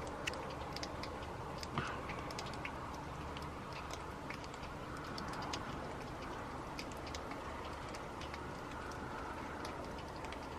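Light rain: scattered raindrops ticking irregularly, over a steady low background rumble, with one slightly louder tap about two seconds in.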